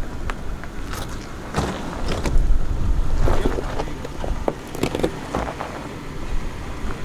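Off-road SUV crawling over a rocky trail: a low rumble with scattered sharp cracks and crunches of rock and gravel under the tyres, and some wind on the microphone.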